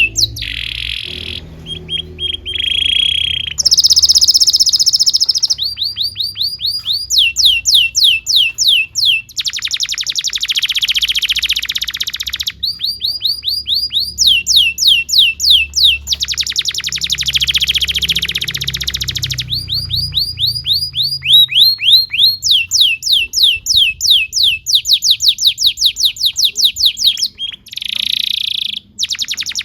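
Canary singing a long, continuous song: phrases of repeated sweeping notes, several a second, alternate with long, very fast rattling trills (rolls), one about ten seconds in and another lasting several seconds in the middle.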